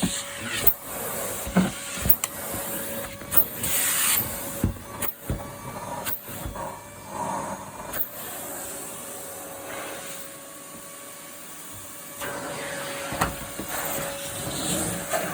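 Numatic Henry vacuum cleaner running, its motor humming steadily, with knocks and rattles over it. About eight seconds in it goes quieter for a few seconds, then comes back up.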